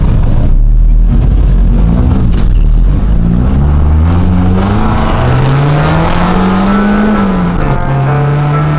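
Nissan 240SX hatchback's KA24 four-cylinder engine, heard from inside the cabin, accelerating hard up through the gears: the pitch climbs in three or four rising pulls, then drops about three-quarters of the way through and holds steadier.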